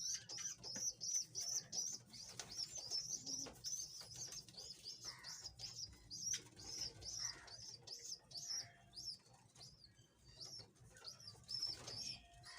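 Budgerigars chirping and chattering: a continuous run of short, high chirps, about three or four a second, with a few faint clicks among them.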